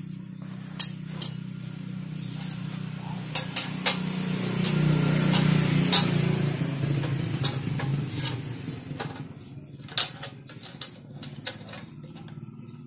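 Sharp metallic clinks and knocks of tools and metal parts while an aftermarket exhaust is fitted to a motorcycle. Under them is a steady low hum, and a rush of noise swells and fades in the middle.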